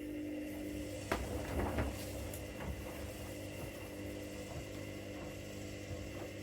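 Washing machine running: a steady motor hum that comes up just before this moment, with a few knocks and rattles from the drum about a second to two seconds in.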